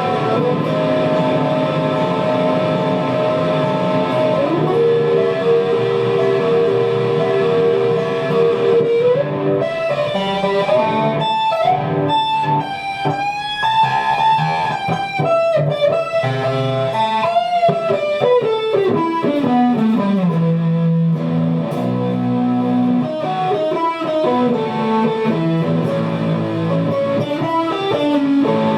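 Guitar-led music: held notes that slide up and down in pitch, a run of quick notes about ten seconds in, and a long slide downward a little before twenty seconds.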